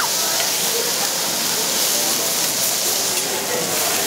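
Steak and bean sprouts sizzling steadily on a hot teppanyaki steel griddle, with a few faint metal taps of the chef's knife and spatula on the steel.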